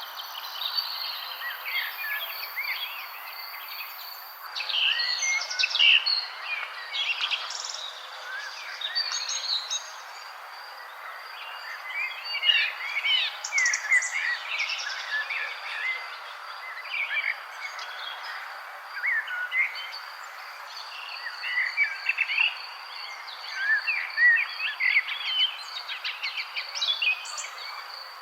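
A chorus of many songbirds chirping and singing at once, in short rising and falling calls that crowd together and thin out again every few seconds. A steady, high, pulsing trill runs underneath them throughout.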